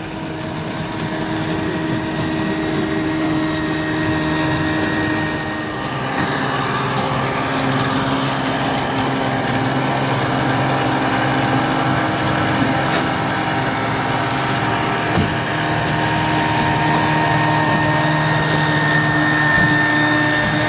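Small outboard motor running steadily under way, a high engine drone that grows a little louder about six seconds in.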